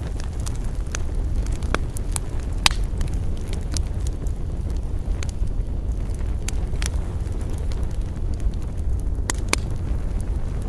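Wood campfire burning: sharp crackles and pops at irregular moments over a steady low rumble, the loudest pop about two and a half seconds in.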